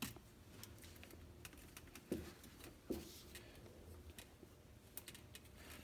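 Faint, scattered clicking and light knocks of wire connectors and clips being worked loose by hand, with sharper knocks at the start and about two and three seconds in.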